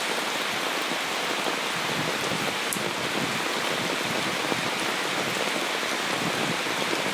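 Steady rain falling on the ground and surrounding surfaces, an even continuous hiss.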